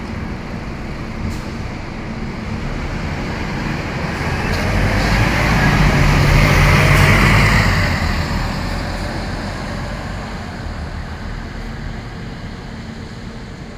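A heavy road vehicle passes close by over a steady low engine hum. Its engine and tyre noise swell to a peak about halfway through, then fade away.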